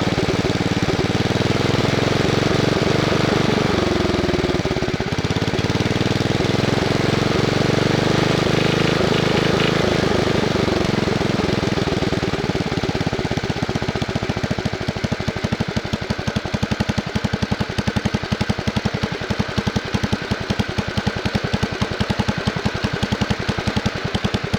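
Wisconsin S8D single-cylinder engine of a Bolens 850 garden tractor running, its speed rising and falling for the first several seconds. About halfway through it drops to a slow, uneven idle with each firing stroke heard separately. The owner blames throttle and governor linkage that does not hold the engine at a steady RPM.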